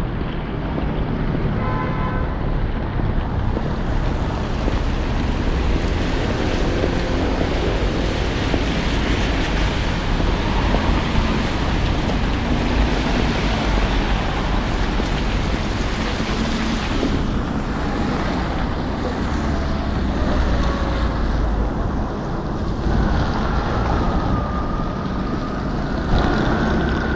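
Steady rushing noise of wind buffeting the microphone, over the hiss of traffic on a wet road.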